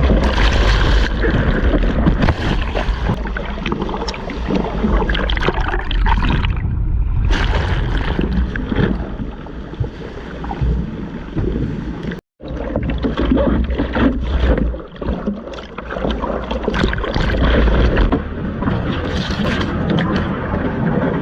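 Rushing, splashing seawater and wind buffeting a waterproof action camera's microphone while surfing, with a heavy low rumble throughout. The sound breaks off for an instant about twelve seconds in.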